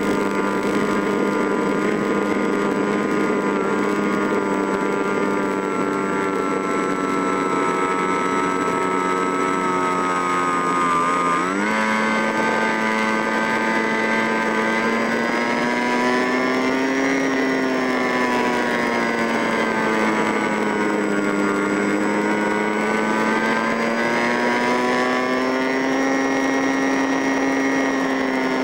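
A small motor running steadily under load. Its pitch jumps up just before halfway, then slowly rises and falls twice as the speed changes.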